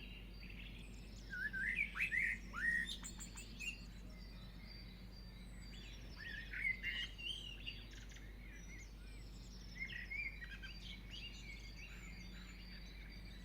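Faint birds chirping in scattered bursts of short, quick rising and falling notes, over a low steady hum.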